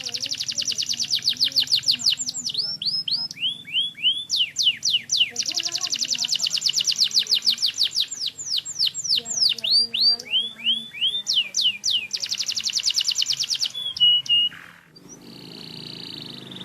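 Domestic canary singing: fast series of high notes that sweep downward, run into long rapid trills. The song breaks off about 14.5 seconds in, and a quieter, steadier high sound follows.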